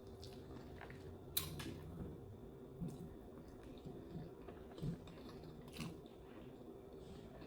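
Faint chewing and mouth sounds of a person eating, with a few sharp clicks scattered through, the sharpest about a second and a half in.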